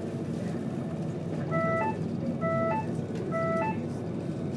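Steady low rumble of a tilting Virgin train running at speed, heard from inside the carriage. From about a second and a half in, a short two-note electronic beep, a low note then a brief higher one, sounds three times, a little under a second apart.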